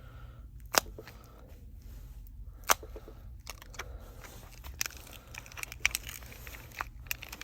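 A plastic battery pry tool working a Samsung Galaxy S8+ battery loose from its heated adhesive: two sharp clicks, one under a second in and one nearly three seconds in, then a run of smaller ticks and crackles as the adhesive gives.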